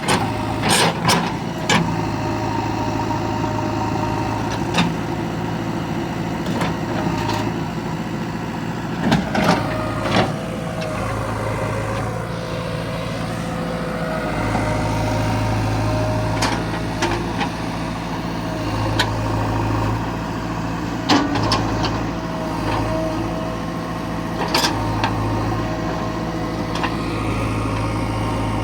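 Diesel engine of an earthmoving machine running steadily, its note swelling and easing at intervals, with about ten sharp knocks and clanks scattered through it.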